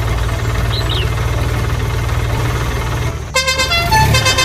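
A low, steadily pulsing engine rumble. About three seconds in it cuts off and a bright tune of stepping horn-like notes begins.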